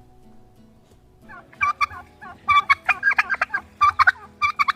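Turkey gobbling: fast rattling calls in several bursts, starting about a second in.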